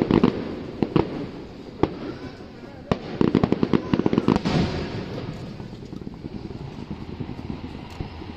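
Fireworks display: a rapid volley of bangs at the start and another about three seconds in, with single bangs between them, then fading crackle.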